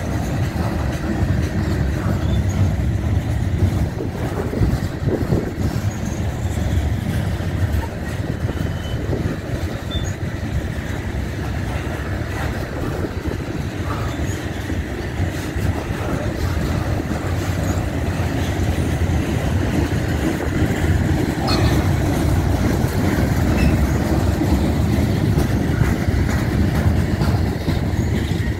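Freight train of lumber-laden centerbeam flatcars rolling past, a steady rumble of steel wheels on the rails.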